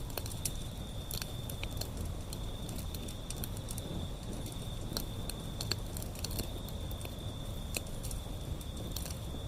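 Wood fire burning, with irregular sharp crackles and pops over a low steady rumble of the flames. A steady high-pitched insect trill runs underneath.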